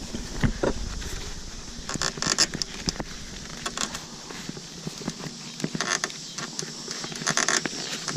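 Intermittent creaks, clicks and short scrapes of beehive equipment being handled with gloved hands, the loudest clusters coming about two seconds in and again near the end.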